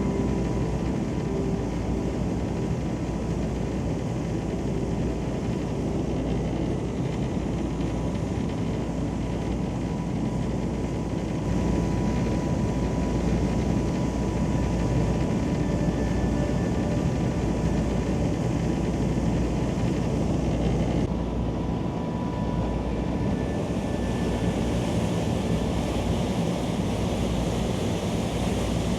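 Tour boat's engines running steadily under way, a constant low rumble mixed with the rush of water along the hull and wind.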